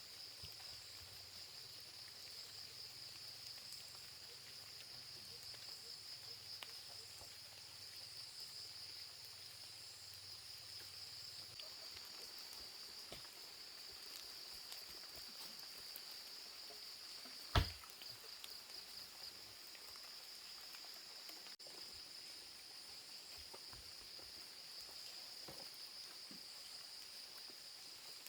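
Insects chirring steadily in a high, finely pulsing band, with one sharp knock about two-thirds of the way through.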